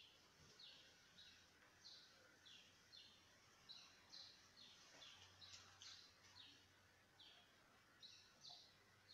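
Faint, regular series of short high chirps, about two a second, each falling in pitch: a small bird calling over and over.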